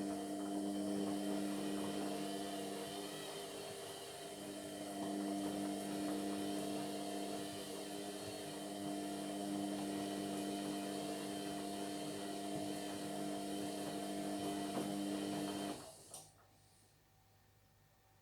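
Indesit MyTime washing machine running mid-wash: a steady motor hum with a hiss above it, which cuts off suddenly near the end.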